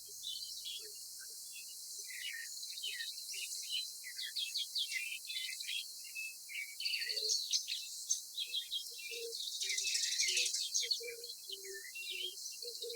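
Small birds chirping and calling in many short, quick notes, joined about halfway through by a run of short, lower-pitched notes.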